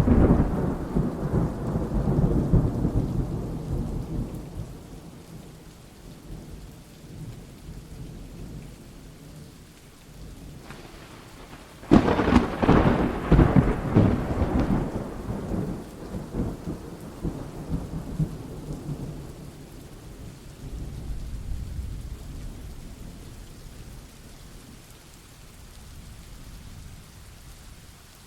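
Thunderstorm: steady rain with rolling thunder. A clap's rumble dies away at the start, a sharp loud thunderclap comes about twelve seconds in and rolls on for a few seconds, and a softer low rumble swells near the end.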